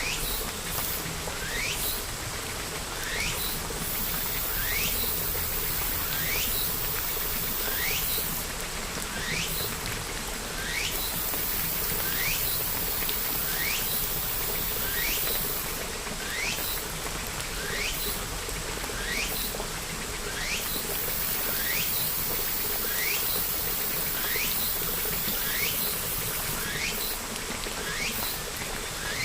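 Steady rainfall hissing evenly, with short rising chirps that repeat about once a second.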